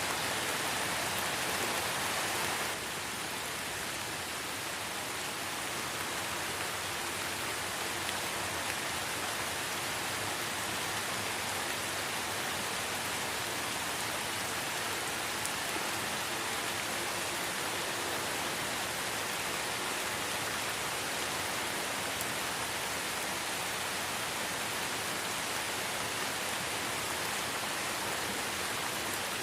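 Steady light rain falling in a forest, an even hiss of drops with no single drop standing out. The sound dips slightly about three seconds in, then stays even.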